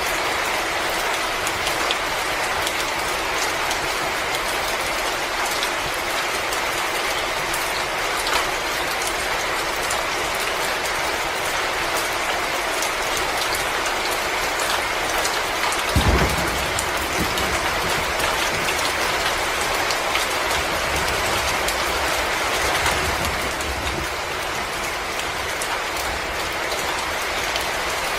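Wood fire crackling in a fireplace: a steady dense hiss flecked with many small pops and snaps, with one low thump about halfway through.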